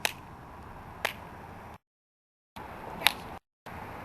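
Sharp finger snaps about once a second, standing in for a clock's ticking. The sound cuts out completely twice, briefly.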